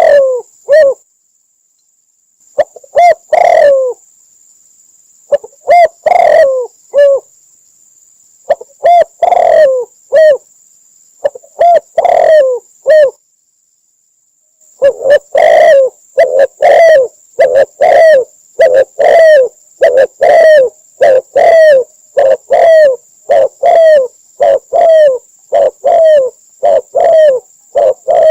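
Spotted dove cooing, a recorded lure call for trapping doves: loud, low coos in short groups with pauses between them, then about halfway a steady run of coos at roughly one and a half a second. A faint, steady high-pitched whine lies under the calls.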